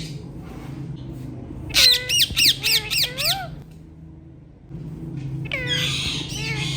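Ringneck parrots squawking: a fast run of six or seven sharp, repeated calls, about four a second, then after a short pause a second run of calls near the end.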